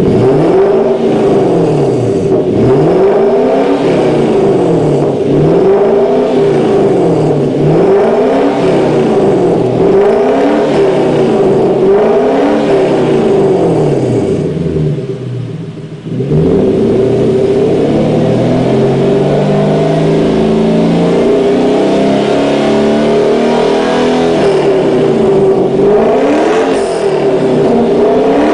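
Toyota UCF31 Celsior's 4.3-litre V8 through a one-off straight-piped stainless exhaust with a loop muffler, revved repeatedly in quick blips about every second and a half. About halfway through the revs drop away briefly, then climb slowly in one long rise before the quick blips return near the end.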